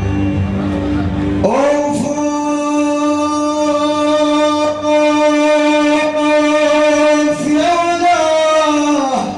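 Live Arabic music: after a short instrumental passage, a voice slides up into one long held note of about seven seconds over the band, then glides down at the end.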